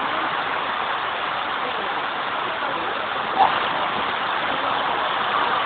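Heavy rain with rushing water, a steady even hiss. A brief sharp sound stands out a little past halfway.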